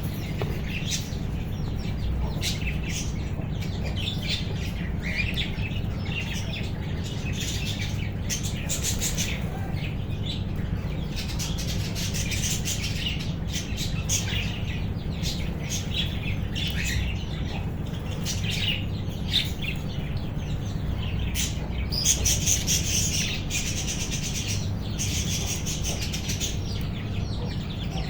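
A colony of budgies and cockatiels chirping and chattering continuously, many calls overlapping, over a steady low hum.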